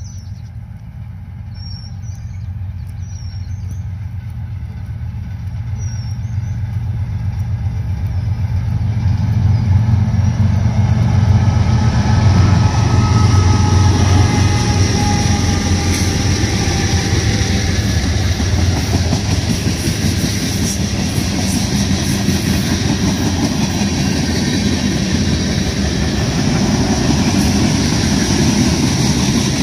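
BNSF diesel freight locomotives approaching and passing, their engine drone building to its loudest about twelve seconds in, followed by freight cars rolling by with steady wheel-on-rail noise and a faint high wheel squeal.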